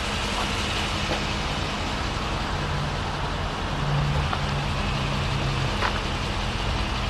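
2002 Chevrolet 2500 catering truck's engine idling steadily.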